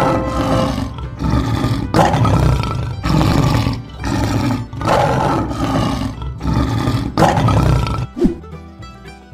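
Lion roaring again and again, about one roar a second, over cheerful background music; the roars stop about eight seconds in.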